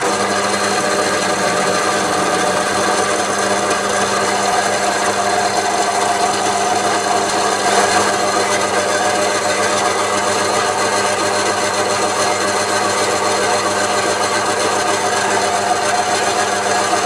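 Metalworking machine tool running steadily while facing off a metal part, starting suddenly and holding an even whine with several steady tones over a grinding cutting noise.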